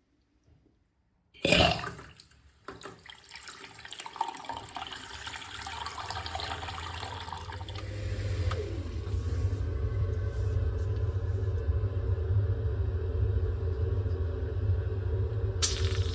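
Baxi Duotec combi boiler being tested after a plate heat exchanger replacement: water starts rushing through the pipework suddenly, building over several seconds into a steady low hum of the circulating pump under the flow of water.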